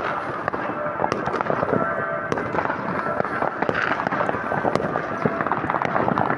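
Fireworks and firecrackers going off in a dense, continuous barrage of cracks and bangs from many sources at once, with no pause.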